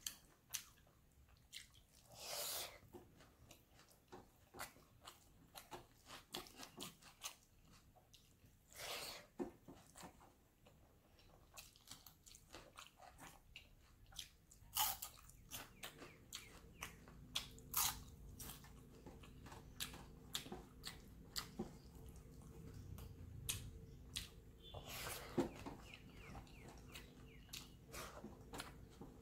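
Close-miked chewing and wet mouth clicks of a person eating hand-mixed rice, with crunches of crispy fried dried fish. A faint low hum comes in about halfway through.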